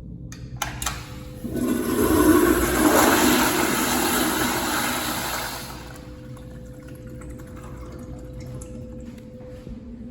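A couple of sharp clicks, then a toilet flushing loudly for about four seconds, the rush of water fading out.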